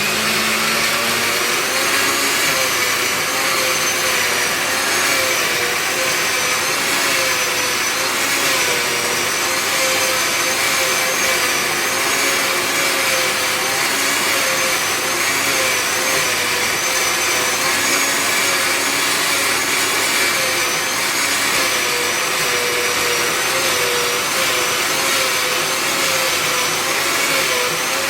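Electric mixer grinder running steadily, grinding the spice paste for chicken pulimunchi, its motor pitch wavering slightly under the load.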